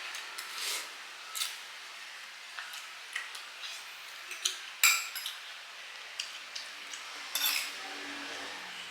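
Spoons and forks clinking and scraping against plates and bowls during a meal, a scatter of sharp clinks with the loudest about five seconds in.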